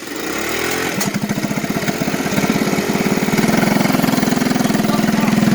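Small engine of a moped or minibike comes in about a second in and runs with a steady, pulsing note, growing louder over the next few seconds.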